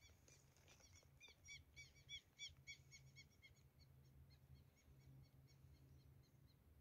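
Faint bird call: a run of short high chirps, about four a second, fading away after about four seconds, over a faint low steady hum.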